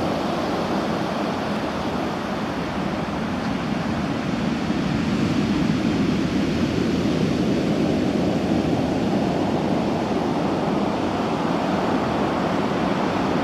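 Heavy surf breaking and washing on a beach, a continuous rumbling wash of waves stirred up by typhoon swell, swelling slightly in loudness partway through.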